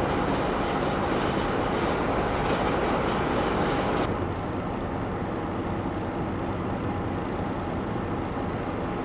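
A train running on the track: a steady rumble, louder for the first four seconds, then settling to a lower, even level.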